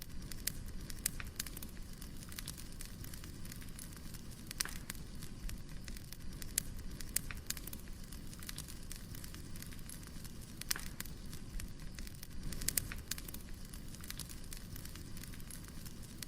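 Wood fire burning: irregular sharp crackles and pops from the burning logs over a steady low rumble of flame, with a few louder pops bunched together about three-quarters of the way in.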